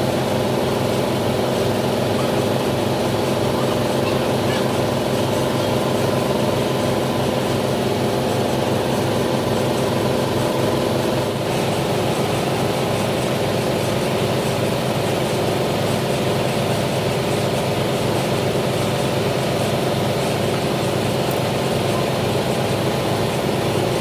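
Heavy machine-shop machinery, most likely a metal lathe, running steadily with a fast regular pulsing. Its tone shifts slightly about halfway through.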